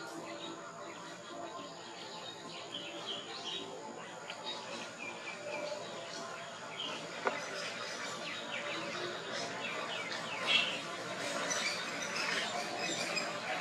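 Small birds chirping in the background: short, scattered calls throughout, with a louder burst of calls about ten seconds in. A thin, steady high tone runs underneath, and there is a single click about seven seconds in.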